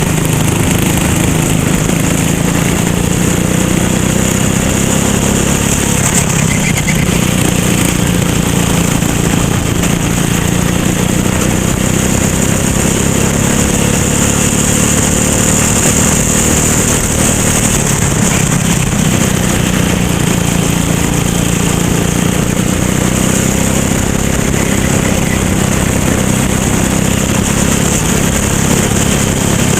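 Racing kart engine running hard, its pitch rising and falling with the throttle through a lap, over a steady rush of wind and road noise.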